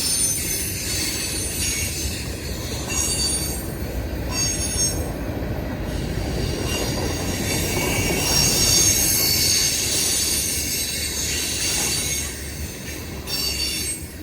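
Freight train cars rolling past, with a steady rumble and the steel wheels squealing against the rails in several high tones that come and go. The sound swells about two-thirds of the way through and eases off near the end.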